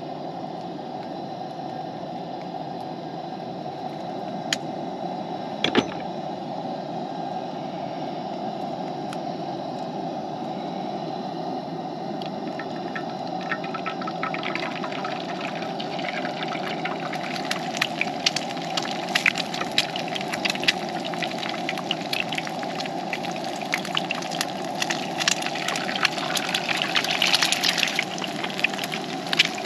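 Campfire burning with a steady rush of flame. Sharp crackles and pops come in about halfway through and grow more frequent toward the end.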